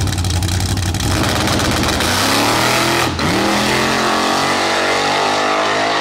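Drag-race Chevrolet Blazer launching from the starting line: its engine crackles rapidly at the line, then accelerates away down the track, rising in pitch, with a brief break at a gear change about three seconds in.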